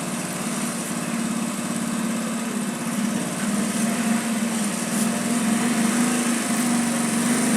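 Small second-hand motorcycle engine idling steadily.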